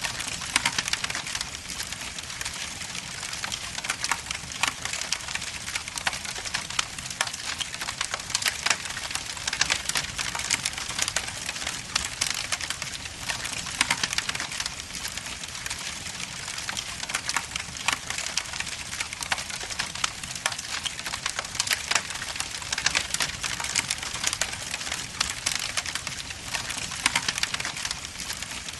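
Wood logs burning in an indoor fireplace, crackling and popping steadily: a continuous hiss dense with many sharp snaps.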